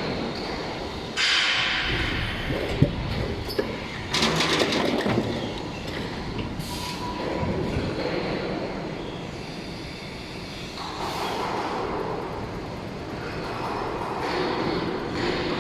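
Injection moulding machine running a 16-cavity mould for 8.5 g water-bottle preforms. Its steady mechanical running noise is broken by bursts of hissing at about one second, four seconds and eleven seconds in, and by a sharp clack at about three seconds.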